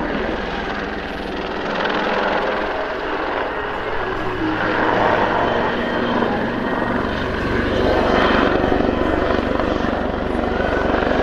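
Royal Navy Super Lynx helicopter flying a display: its rotor and twin turboshaft engines running, swelling and easing as it manoeuvres, with a heavier low rumble setting in about two-thirds of the way through.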